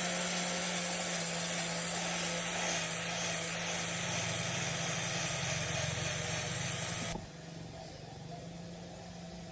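A motor-driven machine runs with a steady motor tone under a loud hiss. The hiss cuts off abruptly about seven seconds in, leaving a quieter steady hum.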